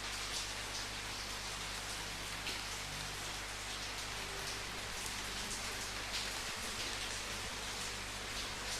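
Steady rain falling, with an even hiss and brief, slightly heavier patters of drops here and there.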